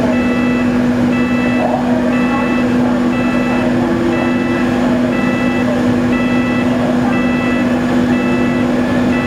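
A steady low drone of ship or terminal machinery, with an electronic warning beeper repeating a short high beep a little more often than once a second.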